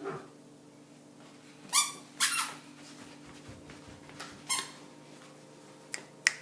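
Squeaky chappals squeaking with steps: three short high squeaks, two close together and a third a couple of seconds later, with lighter clicks near the end.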